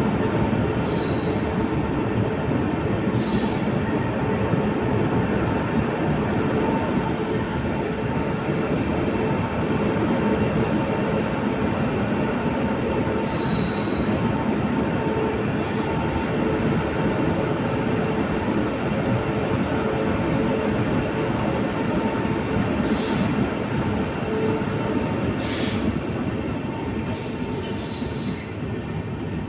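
A train running steadily along the track: a continuous loud rumble with several brief high-pitched squeals, easing off slightly near the end.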